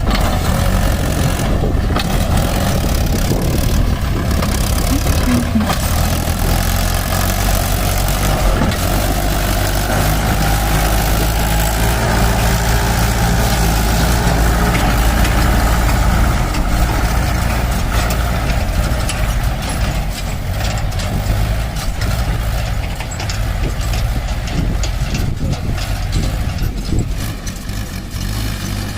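Diesel engine of a backhoe loader working as it loads mud, running steadily and swelling for a while in the middle, with scattered clicks and knocks.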